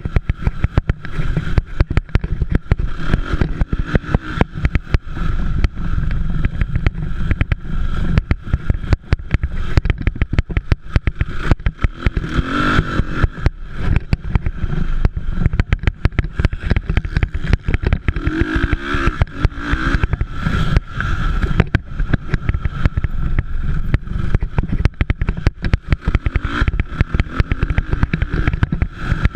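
Motocross dirt bike engines revving and running at racing speed, swelling louder now and then as bikes pass.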